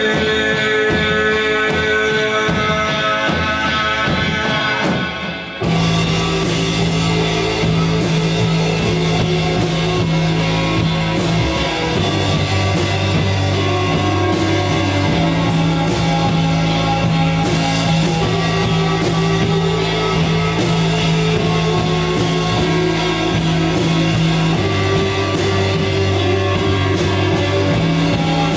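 Rock band playing live: a sustained droning chord for the first few seconds, then drums, bass and guitars come in together about five and a half seconds in and carry on at full volume.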